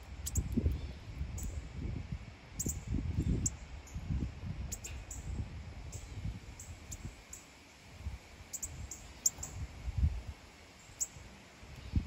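Short, sharp high chip notes from songbirds at the feeders, scattered irregularly, over an uneven low rumble of wind on the microphone.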